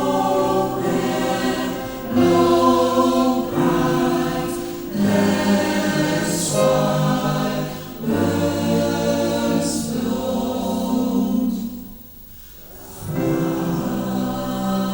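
Choral music: voices holding slow, sustained chords that change every few seconds, with a brief drop in level about twelve seconds in.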